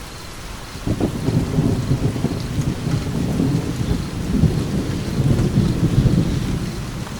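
Steady rain with a rumble of thunder that breaks in suddenly about a second in, rolls on for several seconds and fades near the end.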